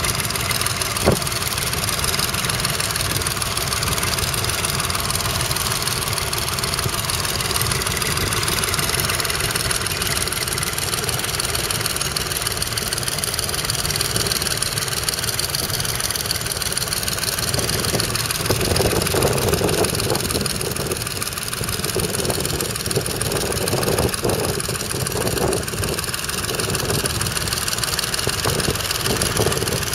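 Nuffield Universal 3 tractor's three-cylinder diesel engine running steadily, with a single sharp click about a second in.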